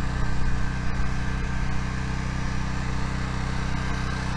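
Generator engine running steadily, a low even drone.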